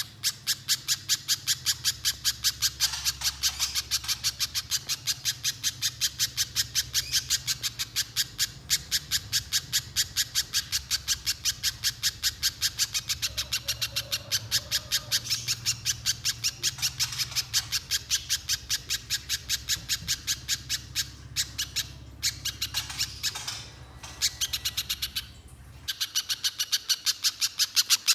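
Spiderhunter (pijantung pisang) calling nonstop in fast runs of sharp, repeated notes, about four a second, with short breaks late on. A low hum underneath stops near the end.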